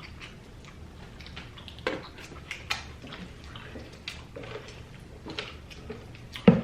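Wet chewing and smacking of someone eating fried chicken wings close to the microphone, in scattered short clicks, with one sharper knock near the end.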